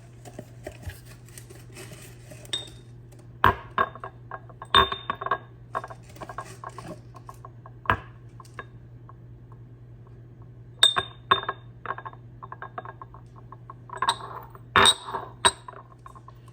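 Drinking cups being picked up and set down, clinking against one another and a hard surface in a series of sharp knocks with a brief ring. The knocks come in scattered clusters, the busiest near the end.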